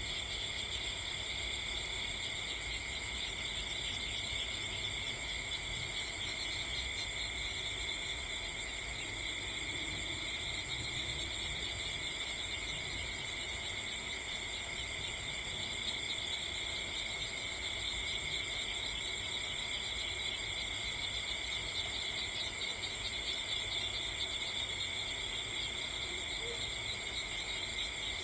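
Steady chorus of insects, a continuous high-pitched shrill trilling made up of several layered pitches that stays even throughout.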